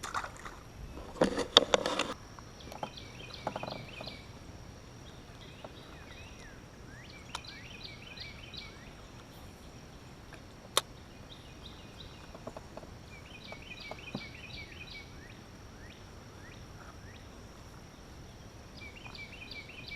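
A bird sings short phrases of several quick high notes, repeated every few seconds, over a steady thin insect drone. A brief burst of knocking and rattling comes about a second in, and a single sharp click near the middle.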